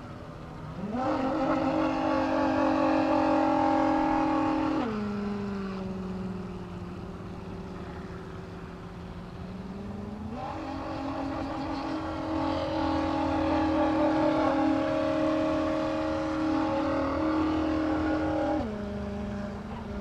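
Electric motor of a radio-control model Chris Craft Constellation boat, running on an 11.1-volt LiPo battery and whining with the throttle. It speeds up about a second in, eases back about five seconds in, speeds up again about halfway through, and slows again near the end.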